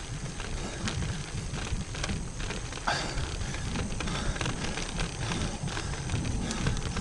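Road bike in motion, heard through an action camera: a low wind-and-road rumble with irregular clicks and rattles from the bike, and a short chirp about three seconds in.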